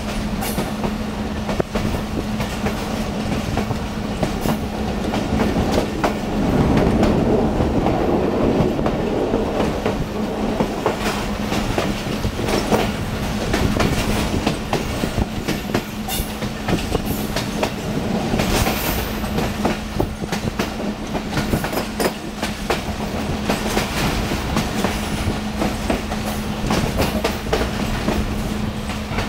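Passenger train running slowly, heard from inside a coach: a steady rumble of wheels on rail with irregular clicks and clacks over the rail joints, over a steady low hum.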